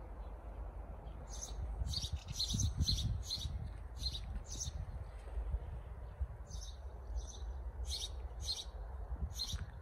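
Small birds chirping: quick, high, short chirps coming in irregular clusters of several a second, with a lull around five to six seconds in, over a low rumble on the microphone that is loudest about three seconds in.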